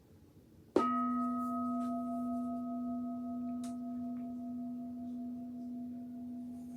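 A Buddhist bowl bell (singing bowl) struck once about a second in, then ringing on with a low, steady hum and fainter higher overtones that slowly fade. It is the mindfulness bell, sounded to call listeners back to their breathing.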